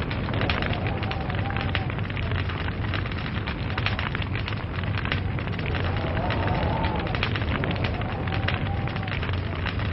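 Log fire burning with dense, irregular crackles and pops over a steady low rumble. A faint wavering whistle rises and falls twice in the second half.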